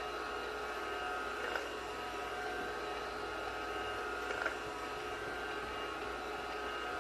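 Wi-Fi vacuum cleaner running with a steady whine over a hiss, with two light knocks, about one and a half and four and a half seconds in.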